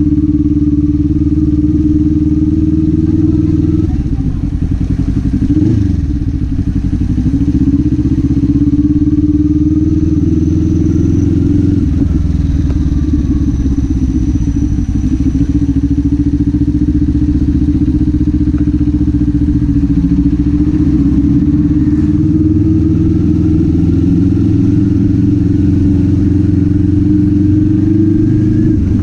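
Kawasaki Z400's parallel-twin engine running under way at a fairly steady pitch. The engine note briefly drops and climbs back twice, about five seconds in and again about twelve seconds in.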